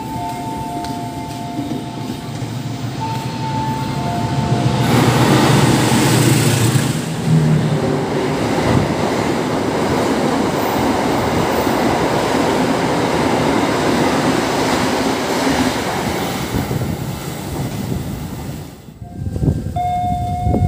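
A diesel-hauled passenger train passing through a station at speed. The locomotive's loud rush arrives about five seconds in, followed by a long, steady rush of carriages rolling past, which dies away near the end.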